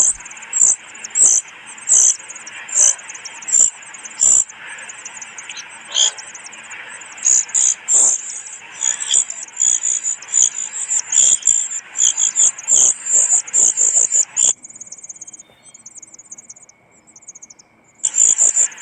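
A brood-parasite chick begging with rapid, high-pitched chirps in irregular bouts. The chirps thin out for a few seconds near the end, leaving a faint steady whistle, then start again.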